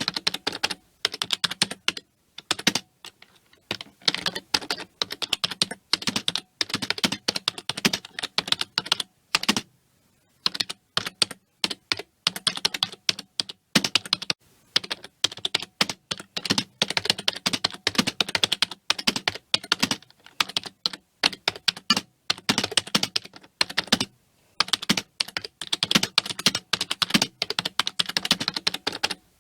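Continuous typing on a computer keyboard: fast runs of key clicks broken by short pauses now and then.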